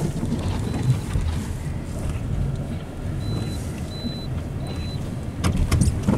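Car engine running, heard from inside the cabin as a low rumble, with a warning chime beeping about every three-quarters of a second from about three seconds in. A few sharp knocks near the end.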